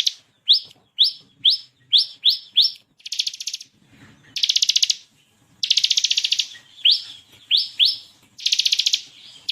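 Ciblek kristal (bar-winged prinia) singing its competition-style song: fast, buzzy rattling trills (the 'ngebren' delivery) alternating with short, sharp upward-swept 'shot' notes. A run of about six quick upswept notes comes in the first few seconds, then several long trills with a few more sharp notes between them.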